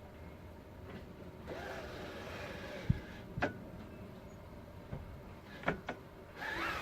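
A pleated hatch blind being slid along its frame: a soft sliding rasp, then a knock and a few sharp clicks, with a short rising rasp near the end.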